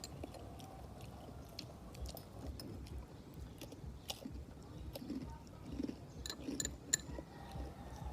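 Close-miked eating during a balut mukbang: chewing with scattered sharp clicks and crunches, the sharpest about seven seconds in.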